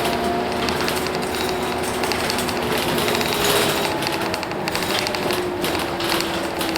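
Hino Blue Ribbon City route bus's 10.5-litre P11C diesel engine running, with a dense clattering rattle and a few tones that slowly fall in pitch.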